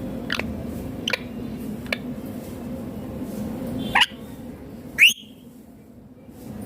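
Indian ringneck parakeet giving five short, sharp calls, each a quick downward-sweeping screech, the loudest about five seconds in. A steady low hum runs underneath and drops away after the loudest call.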